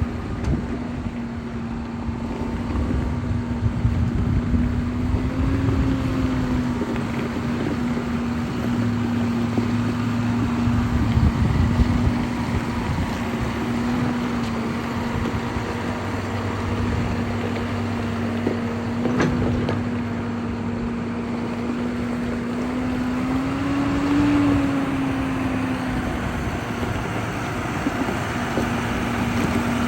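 John Deere 6195R tractor's six-cylinder diesel engine running steadily, its pitch rising briefly twice, about six seconds in and again near 24 seconds.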